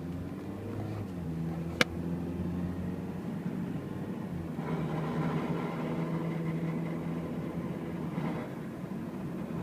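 2010 Toyota Corolla running with a steady engine sound and one sharp click about two seconds in. From about five seconds in, a grinding noise joins for roughly four seconds as the car turns right under throttle. The noise comes whenever the car turns right and accelerates, and its cause is unknown.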